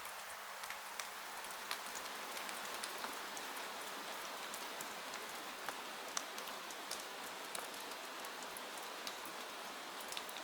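Steady rain falling, an even hiss with scattered sharp ticks of drops throughout.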